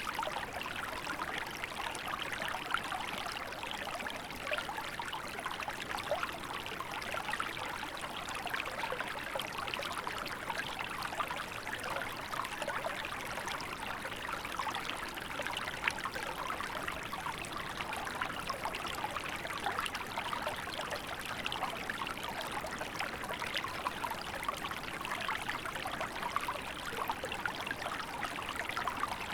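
Small river flowing, a steady burbling and trickling of water over stones.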